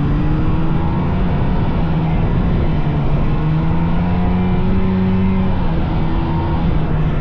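Vintage snowmobile's two-stroke engine running steadily at trail speed, its pitch rising and falling slightly with the throttle.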